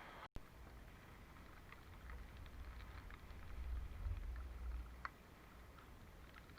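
Wind buffeting the microphone in gusts, strongest around the middle, with scattered light taps and one sharper click about five seconds in.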